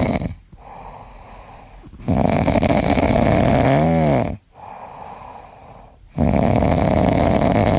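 An animal snoring loudly in slow, regular breaths about four seconds apart. One snore about four seconds in ends in a pitched tone that rises and then falls.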